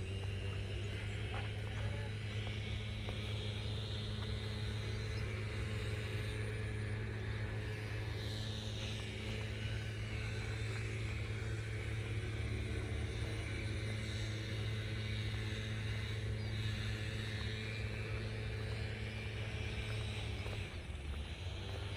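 Steady engine drone holding one low pitch, with a fainter higher whine that wavers in pitch over it; it dips briefly near the end.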